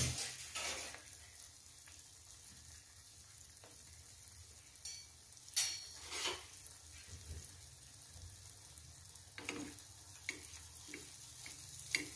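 Two anarsa, cakes of rice flour and sugar, deep-frying in hot oil in a kadhai: a soft steady sizzle, with a few brief clicks.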